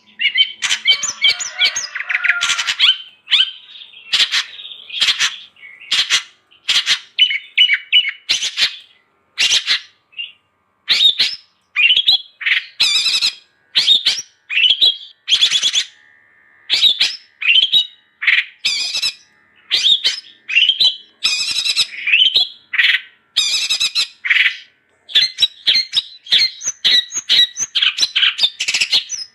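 Long-tailed shrike (cendet) singing actively, in a fast run of short scratchy chattering calls mixed with clear whistled notes, with short pauses about ten and twenty-four seconds in.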